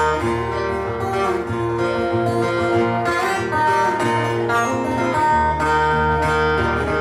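Live blues band playing an instrumental passage with no vocals: guitar to the fore over a steady bass line.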